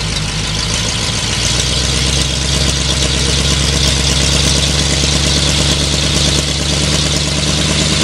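Rebuilt Ford 8BA flathead V8 running steadily with no exhaust manifolds fitted, so its exhaust sounds straight from the open ports. It is loud, and gets a little louder over the first couple of seconds before holding even.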